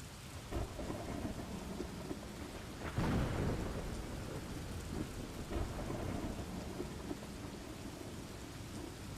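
Steady rain with rolling thunder, the thunder swelling loudest about three seconds in.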